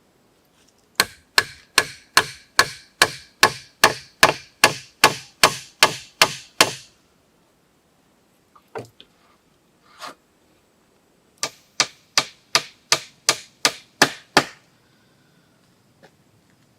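Chopping with a blade: sharp, evenly paced strikes at about three a second, a run of some fifteen, then two single strokes, then a second run of about nine.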